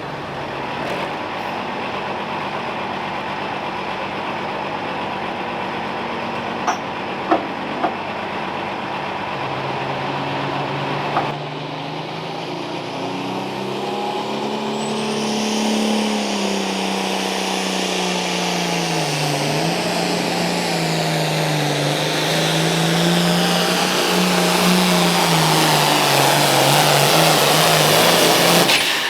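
Pulling tractor's turbocharged diesel engine running flat out under load on a pull run, its pitch wavering up and down and rising louder toward the end. A few sharp snaps come about seven to eight seconds in.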